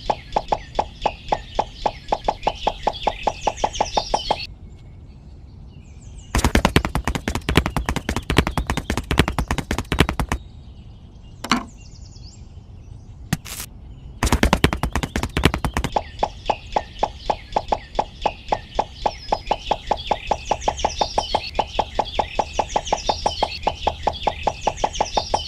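Rapid, even knocking, about five knocks a second, with two faster, louder runs of knocks in the middle; high chirping, like birds, runs over the steadier stretches.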